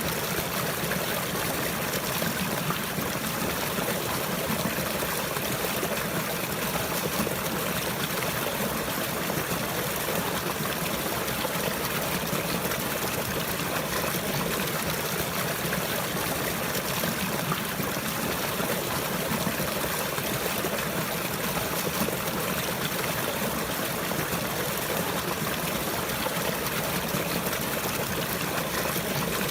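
Steady running water, trickling and flowing without a break.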